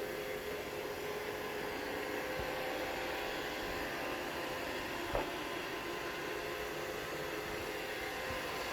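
Roomba robot vacuum running with a steady motor hum and whine while it manoeuvres, trying and failing to dock. A single short knock comes about five seconds in.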